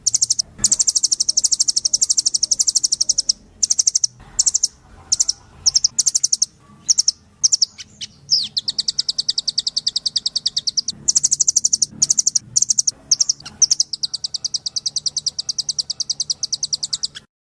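Blue nuthatch song: long, rapid trills of high, repeated notes, broken by short pauses, played as a bird-catchers' lure call.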